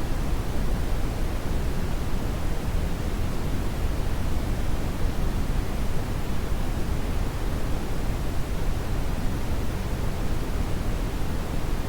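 Steady synthetic brown noise: an even, deep rushing hiss, heaviest in the low end and unchanging.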